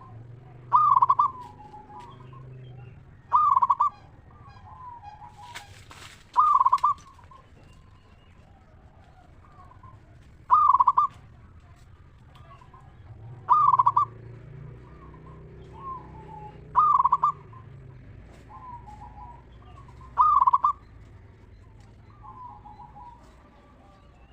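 Zebra dove (perkutut) cooing: a loud, clear call repeated seven times, about every three seconds, with fainter cooing between the calls. A brief rustling noise comes about six seconds in.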